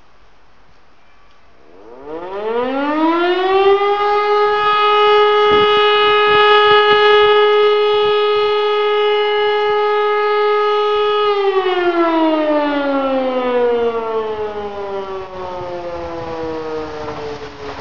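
A siren winds up over about two seconds to a steady loud tone, holds it for about seven seconds, then slowly winds down in pitch.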